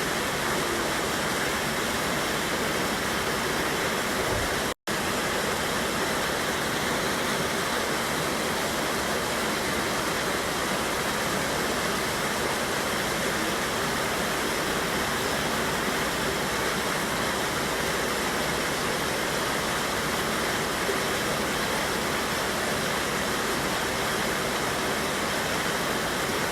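Steady rush of a river waterfall, water pouring and cascading without letup. The sound cuts out for an instant about five seconds in.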